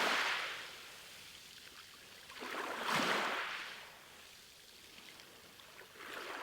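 Ocean waves washing in, heard as a hiss that swells and fades in surges about three seconds apart. There is a strong surge at the start, another about three seconds in, and a weaker one near the end.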